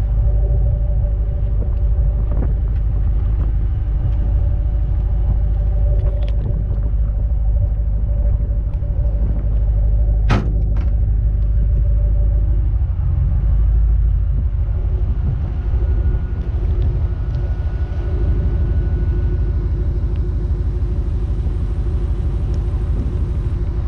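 Twin-turbocharged Ford Mustang V8 engine running with a steady low rumble, its pitch pattern shifting a little past the middle. There is a single sharp click about ten seconds in.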